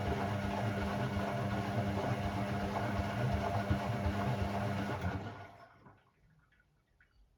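Hoover Sportswear 1300 washing machine running with a steady mechanical hum that winds down and stops about five seconds in, followed by near silence with a few faint clicks.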